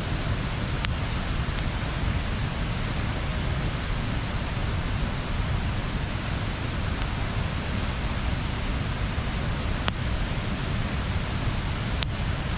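Bonfire burning: a steady rushing hiss of the flames with a few sharp pops from the burning wood, the clearest about ten seconds in and near the end.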